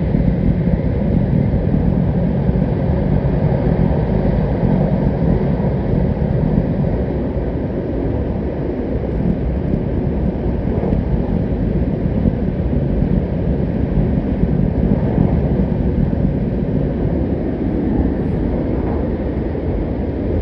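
Sanyo Shinkansen bullet train running at speed through a tunnel, heard from inside the passenger car: a loud, steady rumble, heaviest in the low range.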